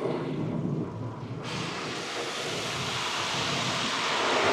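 Car-wash rinse water spraying onto the car, heard from inside the car. A low rushing comes first, then about a second and a half in a steady hiss of spray comes on suddenly and holds.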